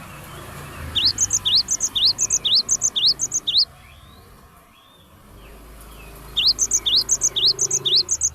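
A bird singing a fast repeated phrase, each a rising whistle followed by a higher double note, about two phrases a second. It sings in two bouts, the first about a second in, then a pause of a few seconds before the second.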